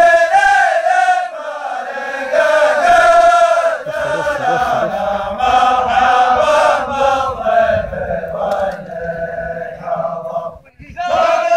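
A group of men chanting a welcome zamil in unison, a Yemeni/Najrani tribal chanted poem. The chant breaks off briefly near the end and starts up again.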